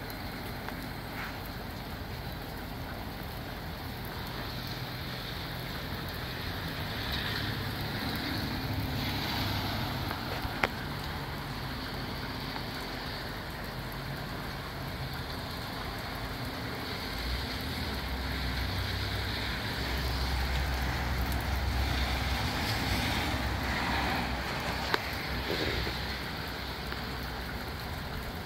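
Moderate rain falling steadily in gusty wind, with a low rumble of wind swelling in the second half and a couple of sharp drip ticks.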